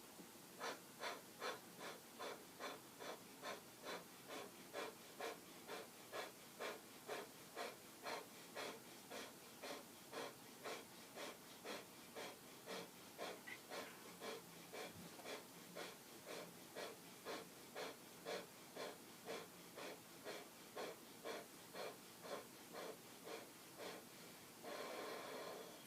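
Kapalabhati (skull shining breath): a steady run of short, forceful exhalations through the nose, about two a second, each driven by a thrust of the navel. The strokes stop about a second before the end.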